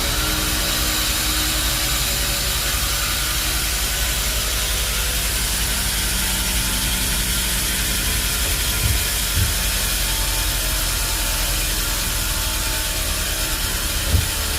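Sawmill machinery running steadily with a low hum under a constant hiss, with two light knocks about nine seconds in and another near the end.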